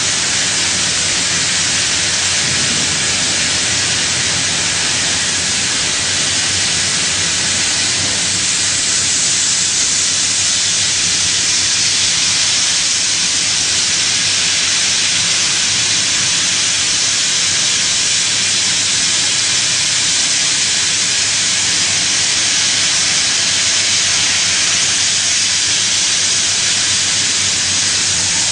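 HPMT SE30 plunge-milling cutter cutting metal on a milling machine: a loud, steady hiss over a faint low hum, with no chatter or rhythmic knocking, as the cutter runs smoothly without vibration.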